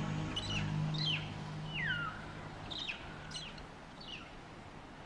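Bird calls: a series of about six short cries, each sliding downward in pitch, one of them longer near the two-second mark. Soft background music fades out underneath them in the first few seconds.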